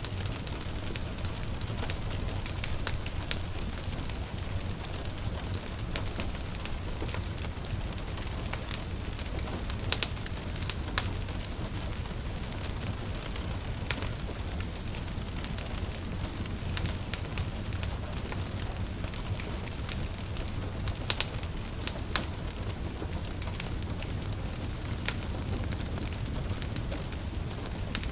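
Wood fire crackling in a fireplace, with irregular sharp pops, a few louder near the middle and later, over a steady low rumble. Gentle rain patters behind it.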